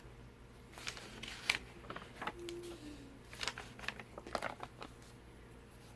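Paper pages of a handmade junk journal being handled and turned: soft, scattered rustles and light paper crinkles.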